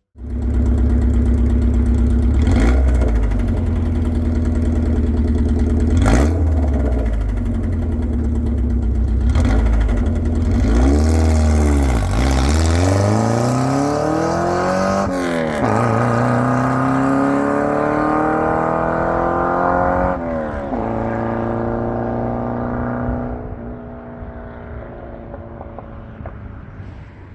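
Straight-piped Subaru EJ20 flat-four engine pulling hard through the gears: its loud exhaust note climbs in pitch and breaks off briefly at each of several shifts. It drops to a lower, quieter steady run near the end.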